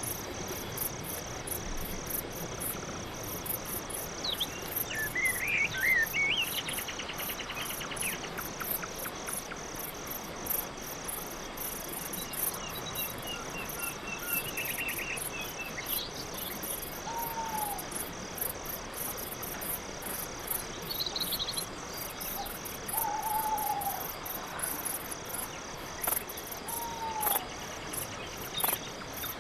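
Night forest ambience: crickets chirping steadily in a fast, even pulse, with a few short whistled bird calls and a brief trill scattered over it.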